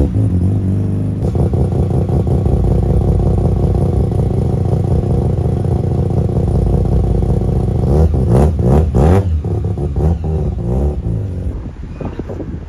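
Car engine idling loudly and steadily, then revved briefly about eight seconds in before settling down.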